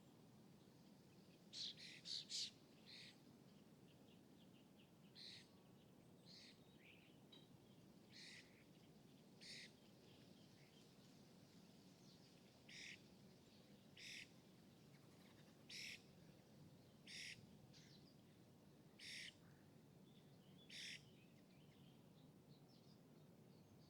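A small bird calling with short, sharp chirps, one every second or two, with a quick run of three near the start. Beneath them is a faint, steady low rumble of distant city noise across the lake.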